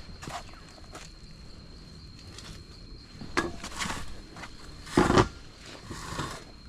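Footsteps on the jungle floor, irregular steps over leaves and debris, with one louder step about five seconds in. A faint steady high tone runs underneath.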